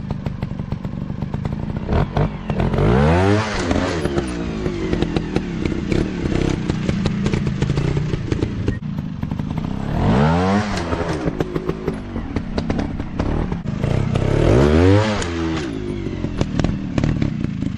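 Dirt bike engine revving hard three times, the pitch sweeping up and back down with each burst, over a steady crackling clatter.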